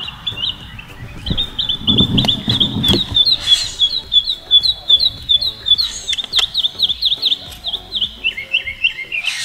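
A songbird singing a long, rapid series of short, high chirping notes, about six to eight a second, which drop lower in pitch near the end.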